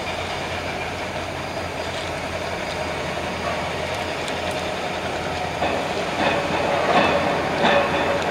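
An approaching train: a steady rumble that grows louder, with a run of rail clacks starting a little over halfway through.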